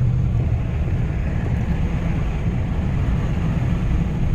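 Steady low road and engine rumble heard from inside a moving vehicle, with a low hum that fades out about half a second in.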